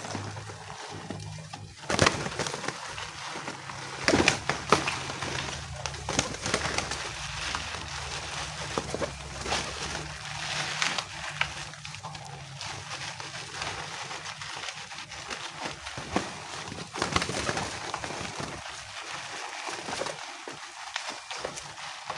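Flock of homing pigeons cooing, with many scattered sharp clicks and knocks among them.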